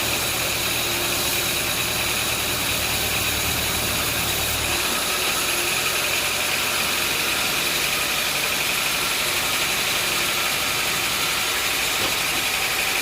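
An engine running steadily; its deep low rumble drops away about five seconds in, while a steady higher whine carries on.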